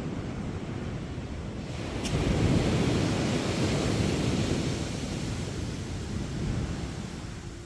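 Sea waves breaking on a beach: a wave crashes about two seconds in and its surf washes in, then slowly dies away toward the end.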